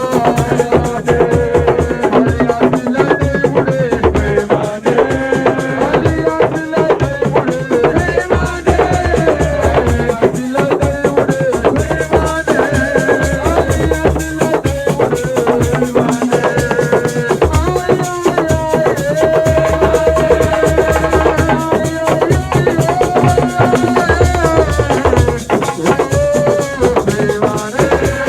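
Senegalese assiko music: dense, steady drumming and shaken rattles under a singing voice whose melody bends up and down.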